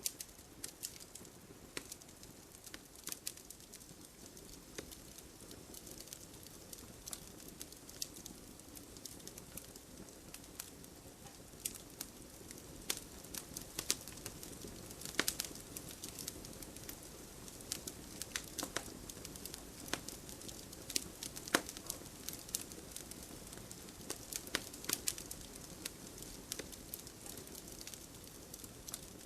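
Wood fire crackling and popping: irregular sharp snaps, some louder than others, over a steady low rush of burning.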